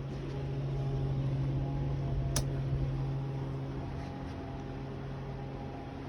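Several electric ceiling and socket fans running together: a steady motor hum with a low drone and faint steady tones. There is a single sharp click about two and a half seconds in.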